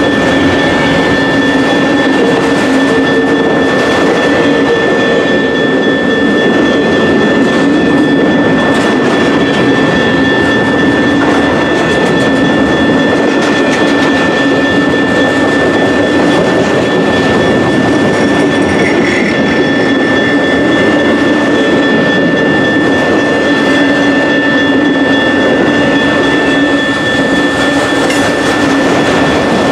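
Long freight train of autorack cars rolling past: a steady rumble of wheels on rail with light clatter, and a steady high-pitched whine held above it throughout.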